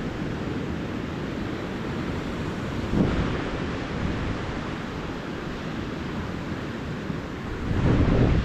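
Ocean surf washing onto the beach, a steady rush with a wave breaking about three seconds in and another swelling up near the end.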